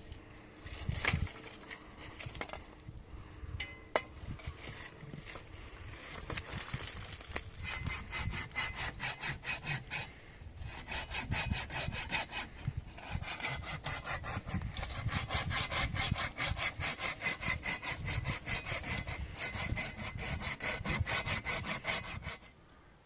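Saw cutting through wood with quick, even back-and-forth strokes. A few scattered knocks come first, and the sawing stops abruptly near the end.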